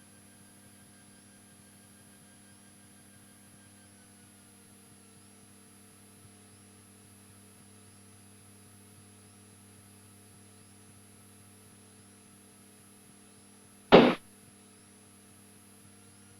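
Steady electrical hum and faint fixed tones on an aircraft radio and intercom audio feed while nobody is transmitting. About fourteen seconds in comes one brief, loud burst of noise, a quick radio click or crackle.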